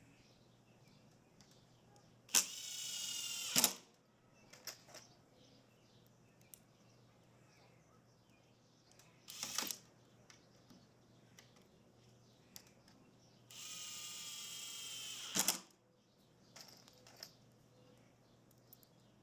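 Power drill running in two bursts of one to two seconds, each ending with a sharp click, with a short burst in between and small clicks of handling; typical of screws being driven.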